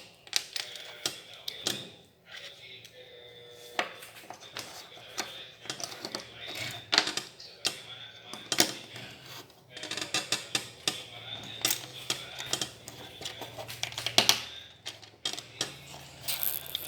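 Plastic building bricks clicking and clattering, irregular sharp clicks as pieces are handled, sorted and snapped together.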